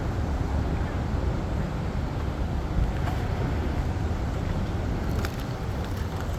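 Steady low rumble of a moving vehicle, with a few faint clicks about five seconds in.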